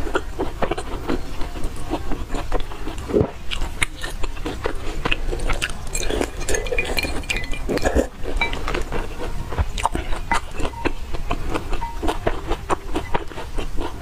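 Close-miked chewing of fried dough sticks (youtiao) soaked in soy milk: steady wet mouth sounds with many small clicks and smacks, with wooden chopsticks now and then clinking against the glass bowl.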